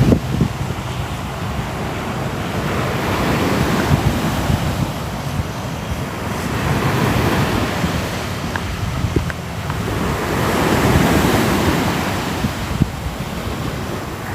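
Ocean surf: waves washing in and drawing back in slow surges, swelling up three times.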